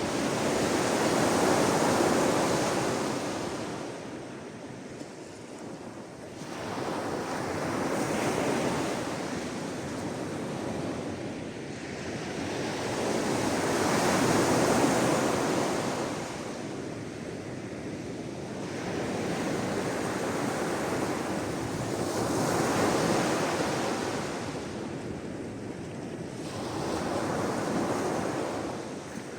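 Sea waves washing onto the shore, a steady rush of surf that swells and fades in slow surges every six to eight seconds.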